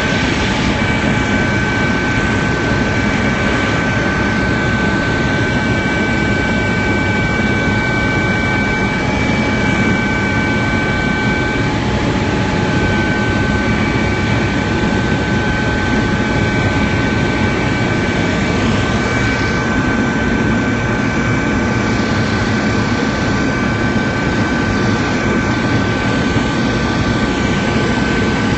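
Helicopter turbine and rotor noise heard from inside the cabin: a loud, steady rushing drone with constant high-pitched whines over it.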